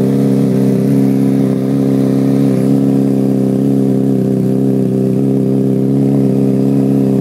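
2007 Honda CBR600RR's inline-four engine idling steadily through a Two Brothers aftermarket exhaust, warming up from a cold start.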